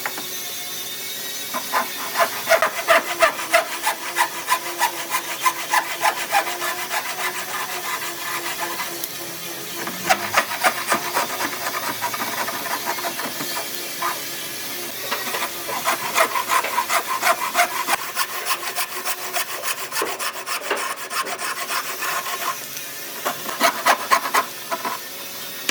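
A hand tool worked back and forth on wood in runs of rhythmic strokes, about three a second, with brief pauses between runs.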